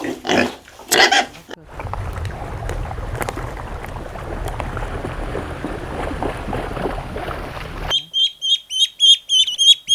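Farmyard poultry clucking over a low rumble, then, about eight seconds in, a bird's rapid high-pitched chirps, several a second.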